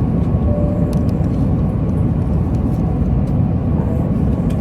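Steady low cabin noise of an airliner in flight: the engines and rushing air make an even low rumble that does not change.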